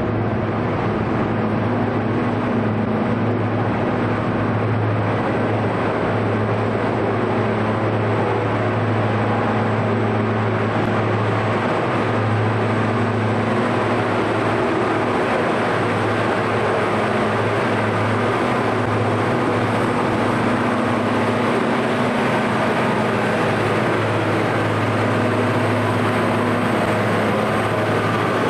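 Heavy diesel machinery running steadily with a constant low hum.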